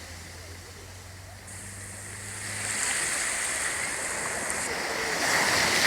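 Sea waves washing onto the shore, the surf growing louder and peaking with a breaking wave near the end. A low steady hum runs underneath for the first couple of seconds.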